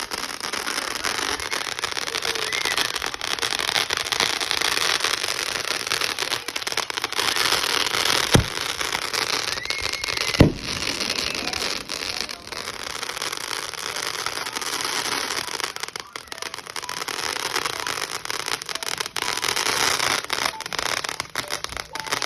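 Fireworks crackling in a dense, continuous rapid popping that starts abruptly, with two sharp louder bangs about eight and ten seconds in.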